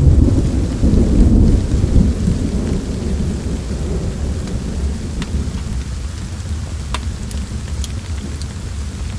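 A roll of thunder rumbles low and fades over the first few seconds into steady rain, with a few sharp pops later on.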